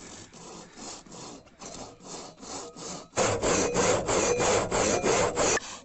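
Hand saw cutting through a tree trunk with quick, even back-and-forth strokes, much louder from about three seconds in.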